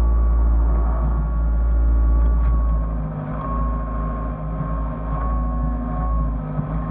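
Hyundai excavator's diesel engine running with a deep, steady rumble, overlaid by a high whine that shifts slightly in pitch as the machine works.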